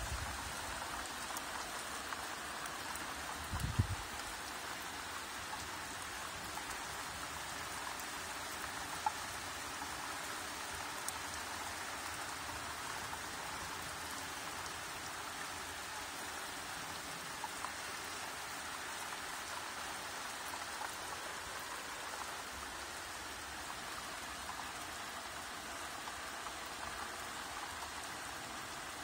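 Steady rain falling, an even, dense patter with a few sharper single-drop ticks, and a brief low thump about four seconds in.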